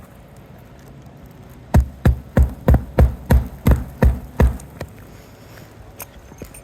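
Hammer driving a roofing nail through an asphalt shingle: a run of about nine sharp strikes, about three a second, starting a couple of seconds in, followed by a few light taps.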